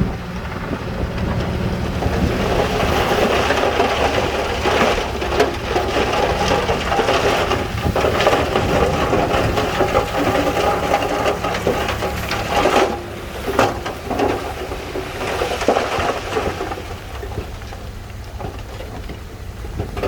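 Heavy earthmoving machinery at work: a diesel engine running under a continuous rumble with many sharp clanks and clatters.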